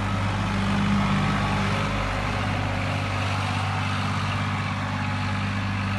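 Tractor engine running steadily at a constant speed, without revving.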